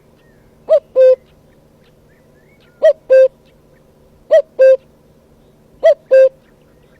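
A bird giving a two-note hooting call, a short note followed by a slightly longer held one, repeated four times at about one pair every second and a half.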